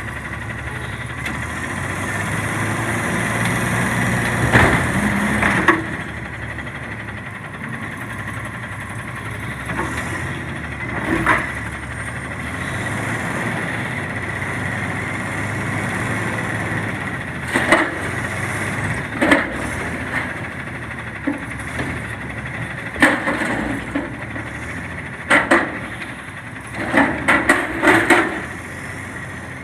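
CNG front-loader garbage truck running steadily while it services a container, with a dozen or so sharp bangs and clanks from the lift arms and metal dumpster, bunched more closely near the end.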